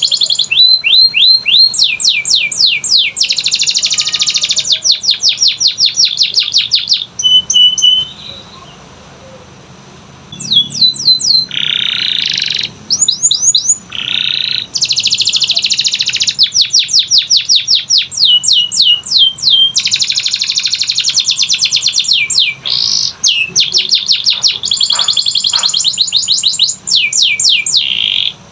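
Canary singing in rapid trills of quickly repeated high chirps and rolls, the phrases broken by a pause of about two seconds roughly eight seconds in.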